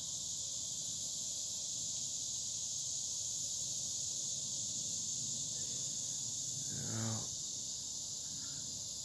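Steady, high-pitched chorus of insects buzzing without a break, with a brief low voice sound about seven seconds in.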